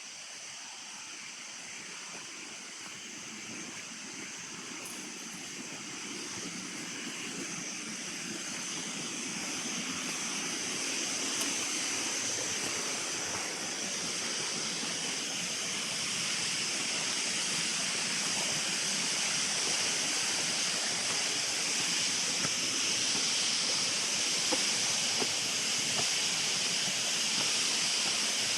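Steady rush of flowing water, growing gradually louder, with a high steady hiss on top.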